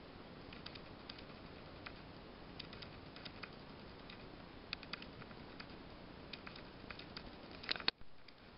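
Small, irregularly spaced clicks and ticks over a faint steady hiss, with a louder cluster of clicks near the end, then a brief dropout.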